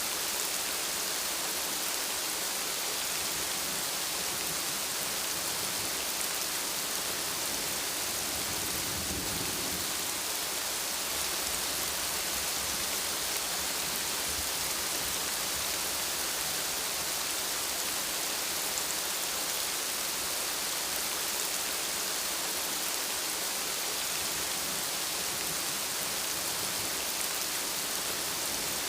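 Steady rain falling in an even, constant hiss, with a brief faint low rumble about nine seconds in.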